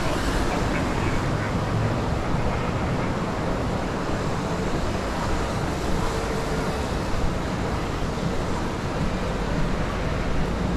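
Steady city traffic noise: a constant low rumble of road vehicles with no single sound standing out.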